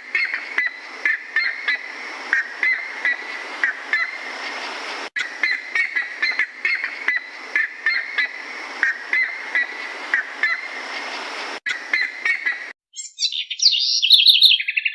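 Birds calling in many short, quick repeated notes over a background hiss. Near the end the sound cuts abruptly to a different bird's higher, trilling song.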